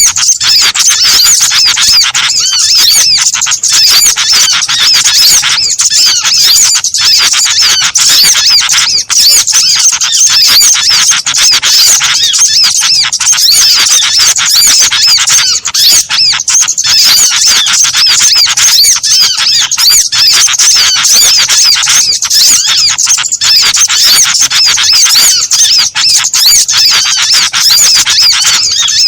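Small-bird lure call recording: a dense chorus of rapid, high chirps and squeaks from many overlapping birds, loud and without pause.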